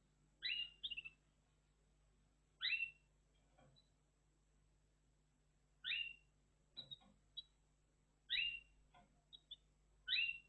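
Red factor canary calling: five short rising call notes a couple of seconds apart, with a few brief high chirps in between.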